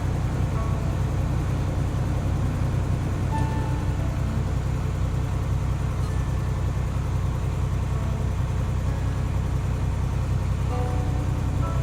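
Diesel semi-truck engine running steadily at the raised idle of a parked DPF regeneration.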